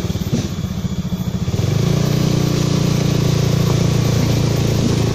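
A small motorcycle engine running, which becomes louder and steadier about a second and a half in as it picks up speed.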